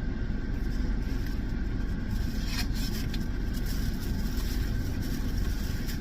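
Steady low rumble of a running car, with a brief click about two and a half seconds in.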